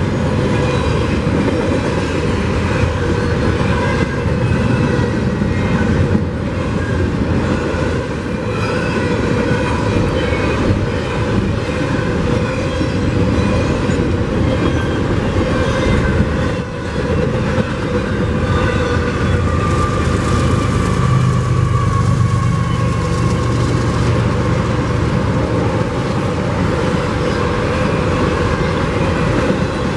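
Freight train cars rolling past close by: a steady rumble of steel wheels on rail, with thin high ringing tones from the wheels drifting over it. A mid-train diesel locomotive goes by partway through, adding a low engine hum about two-thirds of the way in.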